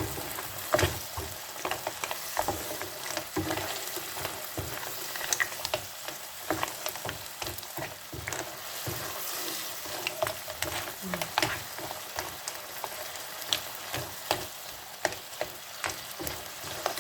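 Food frying in oil in a pan, sizzling steadily, while a utensil stirs it and knocks against the pan many times.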